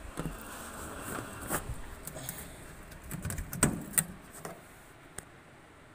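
Scattered clicks and knocks of hands pulling a wire connector off a washing machine's drain motor. The loudest knocks come a little after halfway.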